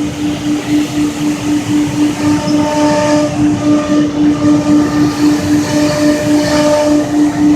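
CNC router in a cabinet shop running and cutting: a steady mechanical hum that pulses two to three times a second, with higher tones coming and going above it.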